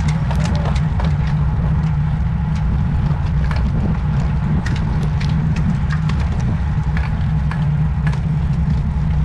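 Steady low wind rumble buffeting the microphone of a camera on a road bicycle being ridden, with scattered light clicks and ticks.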